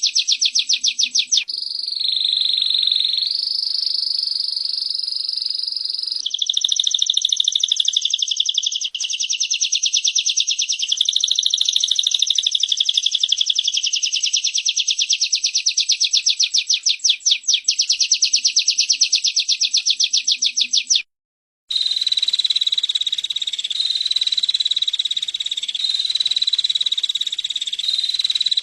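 Recorded calls of small songbirds, a female prenjak and a canary: a loud, very fast, high-pitched trill of many quick repeated notes, shifting slightly in pitch, with a few short breaks. A little over 21 s in it cuts to silence for about half a second, then a steadier trill on a nearly level pitch takes over.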